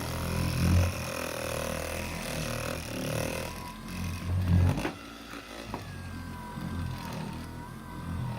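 Cheap electric car buffer running with its pad working micro polishing glaze over car paint: a steady motor hum with a wavering whine. It gets a little quieter about halfway through.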